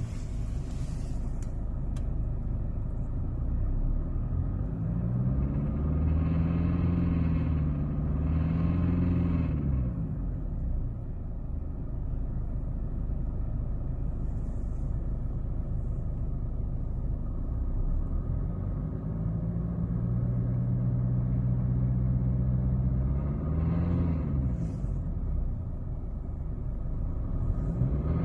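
Mercedes-Benz W203 drivetrain rumbling from around the gearbox selector area, its pitch rising, holding and falling twice as the revs or speed go up and come back down. This is the strange noise that was traced to the parking brake cable catching on the propshaft after its retaining clips broke.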